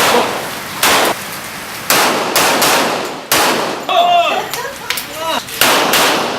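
Pistol shots in an uneven string, about seven, each a sharp crack with a short tail of echo.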